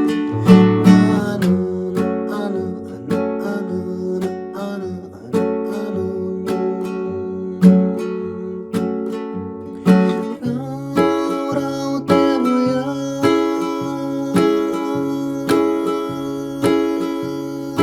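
Acoustic guitar, capoed at the second fret, strumming a chord accompaniment in a steady rhythm of about one stroke a second. It grows fuller and brighter about ten seconds in.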